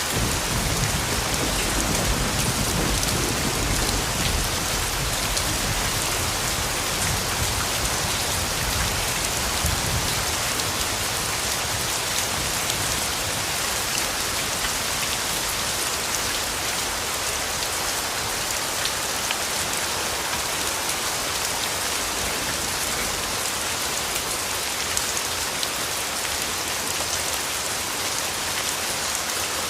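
Steady rain falling on leaves and ground, an even hiss of drops. A low rumble of distant thunder sits under it at the start and fades away about ten seconds in.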